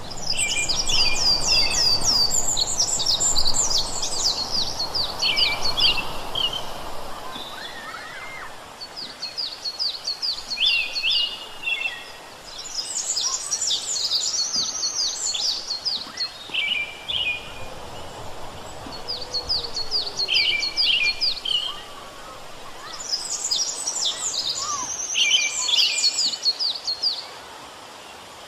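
Songbird song outdoors: bouts of a few seconds of rapid, high trilled notes mixed with lower chirps, repeating with short pauses, over a faint steady background hiss.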